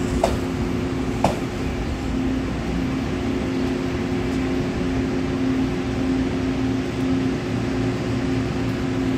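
Taiwan Railway EMU900-series electric multiple unit (set EMU933) running with a steady mechanical hum. Two sharp clicks come about a second apart near the start.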